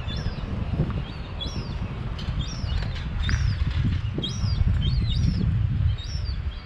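Birds calling over and over with short high chirps, about two a second, over the low, gusty rumble of wind buffeting the microphone.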